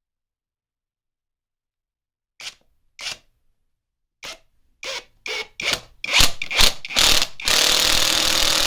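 Brushless 18 V impact driver driving a screw into a block of wood. About two seconds in come several short bursts on the trigger, then a steady run of about two seconds as the screw goes straight in. The freshly repaired tool is working properly.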